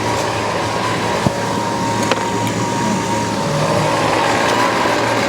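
Weedeater Featherlight SST25 string trimmer's 25cc two-stroke engine running at a steady idle. The idle is not yet dialled in, so the trimmer head keeps spinning instead of stopping.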